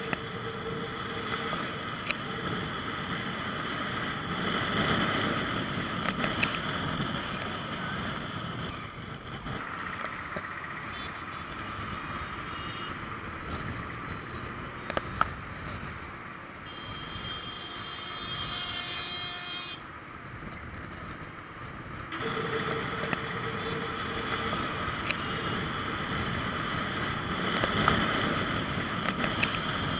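Outdoor road-traffic ambience: a steady wash of passing vehicles, with a few brief sharp sounds.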